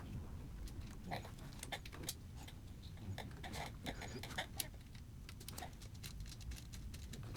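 Faint, irregular small clicks and scrapes of hands and a tool working metal battery terminal hardware while connecting the wires to a motorcycle battery.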